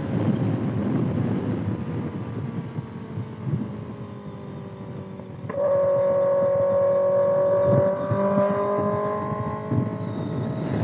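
2025 Kawasaki ZX-6R inline-four through a loud exhaust, its note sinking slowly off the throttle, then about five and a half seconds in the throttle opens sharply: the note jumps louder and climbs slowly under load. A rough rush of wind over the microphone runs underneath.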